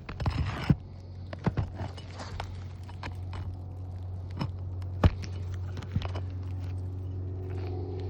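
Scraping and a scatter of sharp clicks and knocks from hand work on asphalt roof shingles, while a wind-damaged shingle is being worked loose. A brief scrape comes at the start, and the loudest knock about five seconds in. A steady low hum runs underneath.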